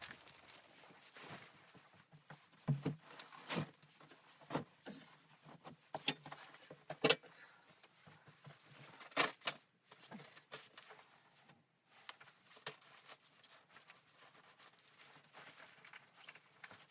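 Scattered light clicks and knocks, a dozen or so at uneven intervals, the sharpest about seven seconds in, with faint rustling between.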